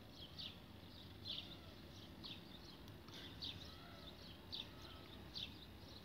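Small birds chirping faintly, short high chirps repeating about twice a second, over a faint low steady hum.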